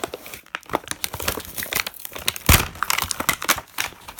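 Plastic toy packaging being handled, crinkling and crackling irregularly, with one louder knock about two and a half seconds in.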